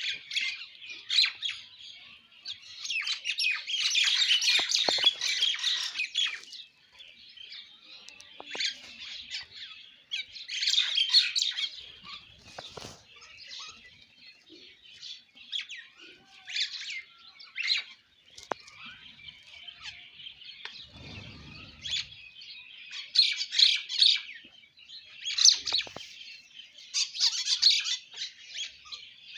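A flock of sparrows chirping and chattering, busy overlapping chirps that swell into louder bursts several times, with a brief low thump about two-thirds of the way in.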